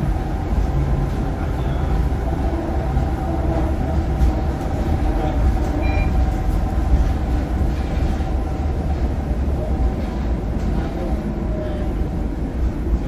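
Scania K230UB bus's DC9 five-cylinder diesel engine running under way, a steady deep rumble with a faint steady whine above it.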